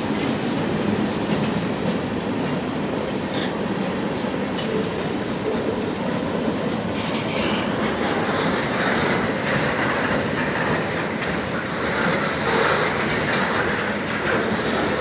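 Norfolk Southern manifest freight train rolling past: a steady, continuous noise of steel wheels running on the rails.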